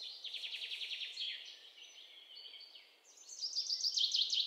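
Small birds singing: a rapid trill of repeated high notes, then chirps and quick falling notes that grow louder near the end.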